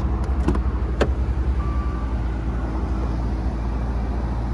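Maserati Quattroporte GTS's twin-turbo V8 idling with a steady low, pulsing rumble, with a few light clicks in the first second.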